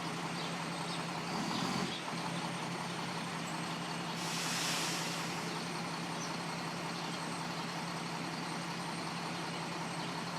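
Snowplow truck's engine running with a steady low drone, swelling briefly a little over a second in. A short hiss comes about four seconds in.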